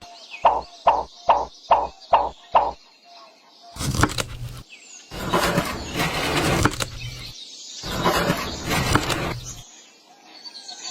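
Six evenly spaced knocks in quick succession, about two a second, then three longer bursts of rough, hissing noise.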